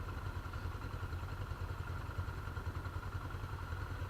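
Off-road vehicle engine idling steadily with a fast, even low pulse.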